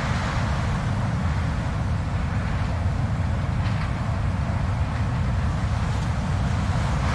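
Blizzard wind blowing steadily: a deep low rumble with a rushing hiss above it.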